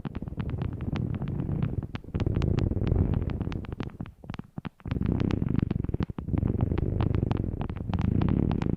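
Close-miked ASMR object handling: a low rubbing rustle that swells and fades, with many small crisp clicks several times a second, briefly dropping away about four seconds in.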